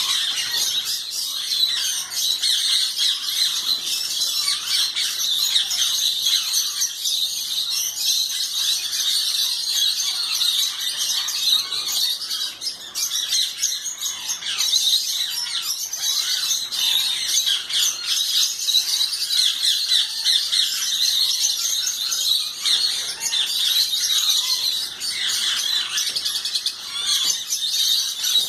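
A flock of parrots chattering, chirping and squawking without pause, many birds calling over one another.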